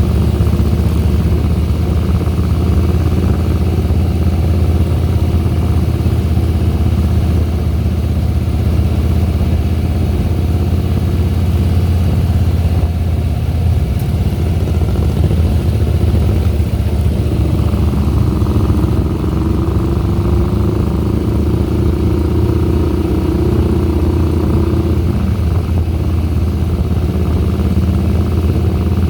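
Harley-Davidson Softail Deluxe's Twin Cam V-twin engine running steadily as the motorcycle is ridden. A higher, steadier tone joins for several seconds past the middle.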